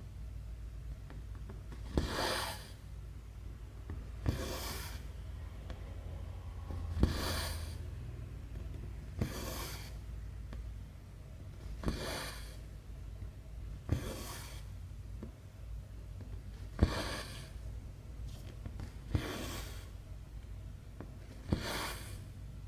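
Needle and thread being worked through cross-stitch fabric: a sharp tick as the needle pierces, then a short scratchy hiss of thread drawn through, repeating about every two and a half seconds, nine stitches in all.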